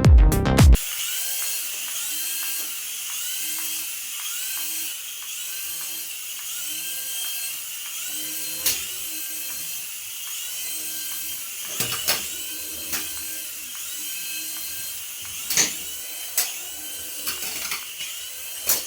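Small electric motor of a battery-powered remote-control toy whirring steadily, with a wobble repeating about every half second and a few sharp clicks scattered through it.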